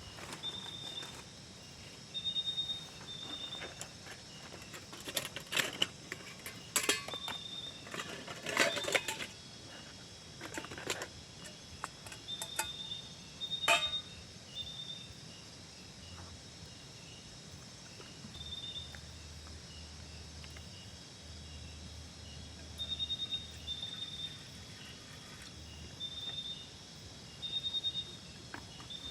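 Short high-pitched chirps repeating every few seconds over a steady outdoor hiss, typical of a cricket or similar insect. A run of sharp clicks and knocks, like gear being handled, comes in the first half, the loudest about 14 seconds in.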